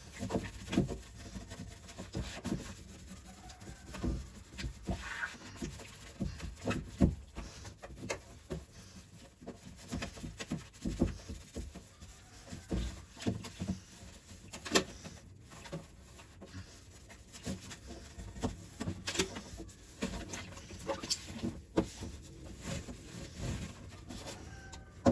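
Irregular light knocks, taps and rustles of food containers and kitchen items being handled and set down while a refrigerator is sorted.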